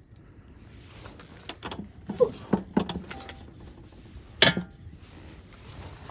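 Short clinks and knocks of objects being handled, with one sharper, louder knock about four and a half seconds in.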